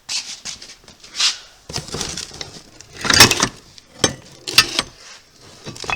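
Clattering and knocking of spare grinding wheels on their metal hubs being handled and shifted, in an irregular run of rattles. The loudest knocks come about three seconds in and again over a second later.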